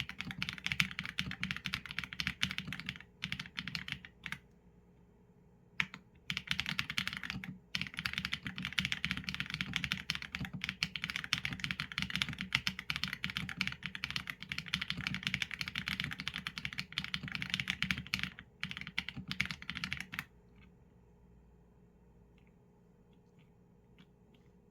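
Fast typing on a Qsenn A75 mechanical keyboard with Leobog Graywood v4 linear switches and PBT keycaps: rapid runs of keystrokes broken by short pauses, the typing stopping about 20 seconds in, followed by only a few faint clicks.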